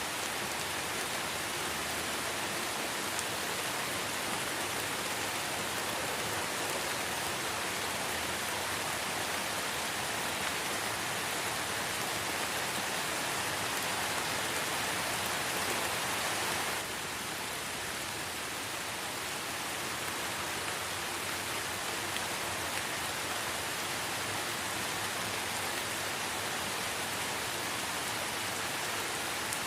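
Light rain falling steadily in a forest, an even hiss of drops that drops slightly in level, suddenly, a little past halfway.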